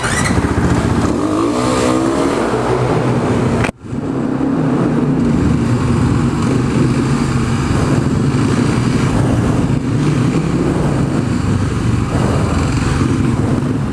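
Dirt bike engine running as it is ridden, its pitch wavering with throttle changes in the first couple of seconds and then holding steady. The sound cuts out for a split second about four seconds in.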